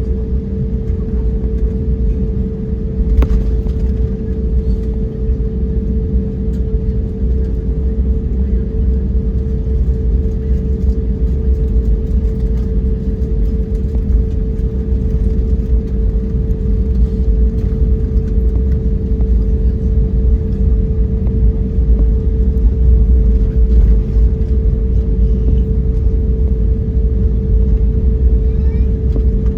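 Airbus A321neo cabin noise: a steady low rumble of the jet engines and airflow, with a constant hum running through it, growing slightly louder over the span.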